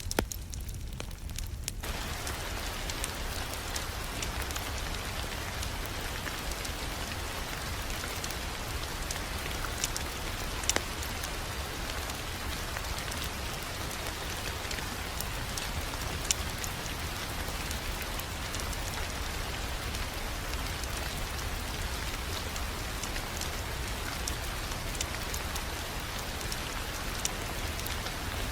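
Fireplace crackling with occasional sharp pops over a steady rain-like hiss and a low rumble; the hiss fills in about two seconds in.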